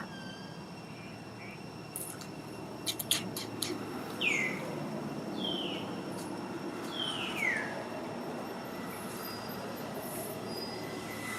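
Baby monkey giving three short high squealing calls, each falling in pitch, over steady background noise, with a few sharp clicks shortly before them.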